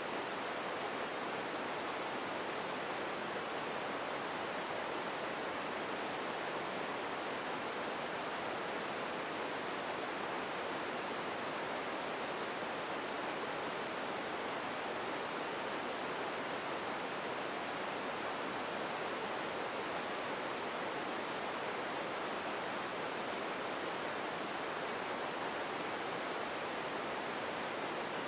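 Steady, even ambience noise, a featureless hiss with no events or changes in it: an empty room-tone bed.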